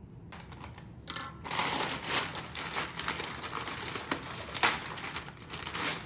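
Frozen mixed vegetables rattling and rustling as they are washed, a dense clatter of small hard pieces starting about a second in.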